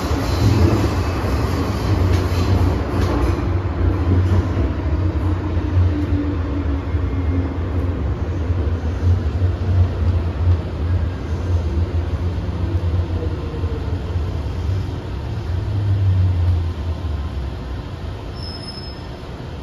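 MTR M-train electric multiple unit running along the track: a steady low rumble of wheels and running gear with faint motor tones above it, easing off in the last couple of seconds.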